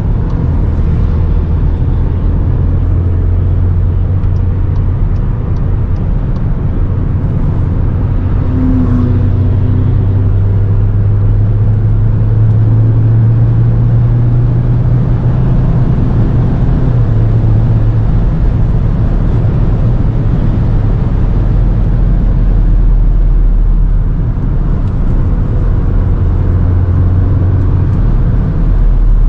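Cupra Formentor 310's turbocharged four-cylinder engine droning under load at high speed, heard inside the cabin over loud road and wind noise; its tone rises a little about a third of the way through as the car speeds up, then holds steady.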